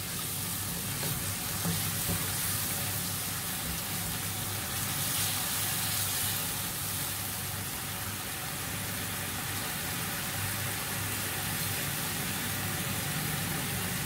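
Tomato and kasuri methi masala sizzling steadily in oil in a nonstick frying pan on a gas burner, the oil spitting and bubbling with the splash of water just added.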